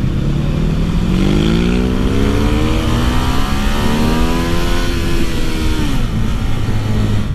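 Ducati Monster 1200R's L-twin engine pulling hard under acceleration. Its pitch rises steadily for about four seconds, then falls away quickly about six seconds in.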